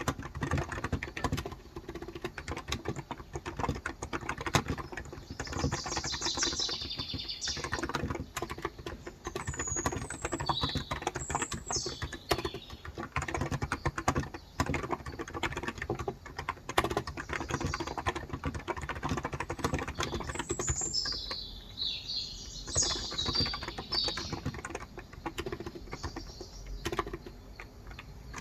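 Continuous fast typing on a Cox Endeavour tenkeyless keyboard with 35 g electrostatic capacitive (non-contact) switches. Birds chirp in the background several times.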